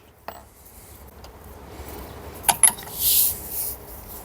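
Hand tools clinking on metal gearbox parts: a light click near the start, two sharp metallic clinks about two and a half seconds in, then a short hiss.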